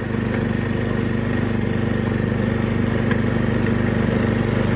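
Snapper riding mower's engine running steadily under way in fifth gear, with the freshly rebuilt clutch grabbing rather than slipping.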